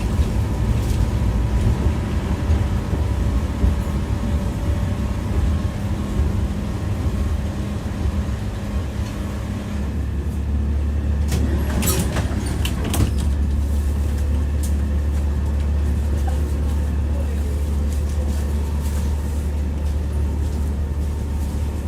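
Tram heard from inside the car while it runs: a steady low rumble of wheels on rails, with a deep steady hum. A short run of sharp clicks and clatter comes about halfway through.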